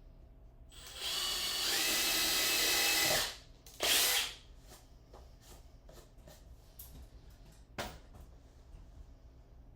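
A power tool runs steadily for about two seconds, then gives a second short burst. A single sharp click follows near the end.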